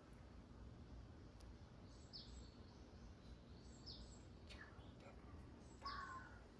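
Faint forest birdsong: a few short, scattered chirps, some dropping in pitch, over a low steady hum.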